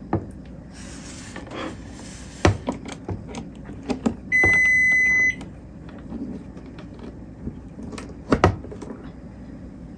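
A microwave oven gives one steady high beep lasting about a second, the chime of it taking power as it is plugged back in. Around it, small household items are moved and knocked about, with sharper knocks near the start and late on.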